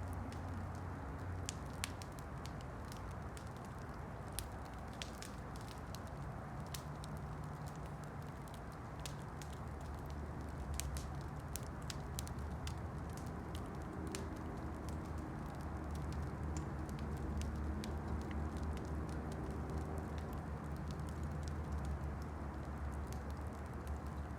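Campfire crackling: frequent sharp pops and snaps from the burning wood over a steady hiss, with a low rumble underneath that gets louder about halfway through.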